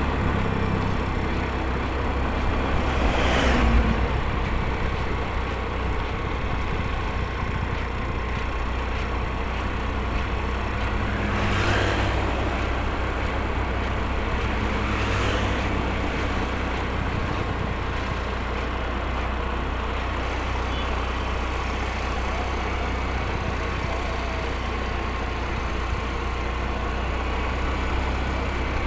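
Motorcycle riding along a road, with steady engine and wind noise. Other vehicles rush past three times: a few seconds in, about halfway through, and shortly after.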